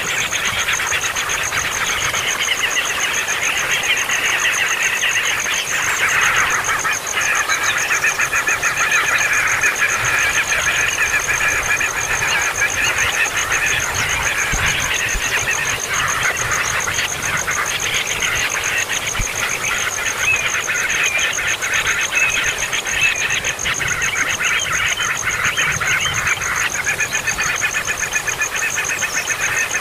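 Baby birds calling noisily and without pause, a dense chatter of rapid, high-pitched begging calls, over a steady thin high whine.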